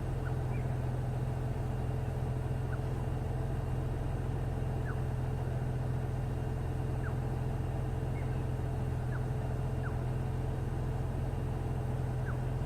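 A safari vehicle's engine idling steadily, left running so as not to scare off the bird being watched. Several faint, very short chirps are scattered through it.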